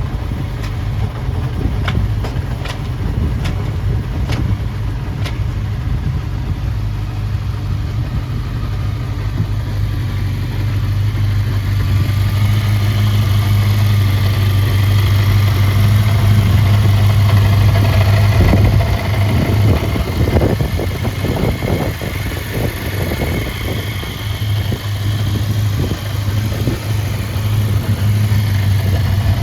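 1983 Suzuki GSX400F's 398 cc four-cylinder engine, fitted with an aftermarket muffler, running steadily with a strong, even low hum. Sharp ticks come in the first few seconds, and the sound turns rougher and uneven in the second half.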